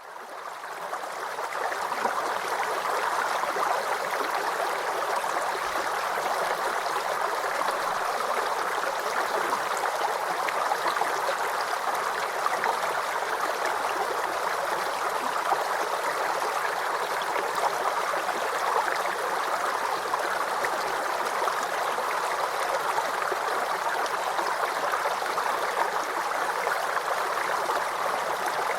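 Small creek babbling and gurgling over stones, a steady dense flow of water that fades in over the first two seconds.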